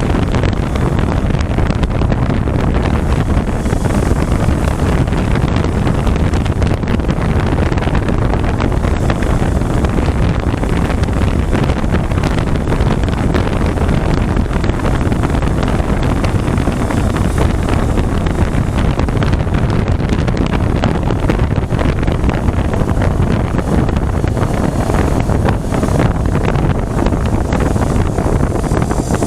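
Loud, steady wind rush buffeting the microphone on a 400cc motorcycle at highway speed, with the bike's engine and road noise underneath.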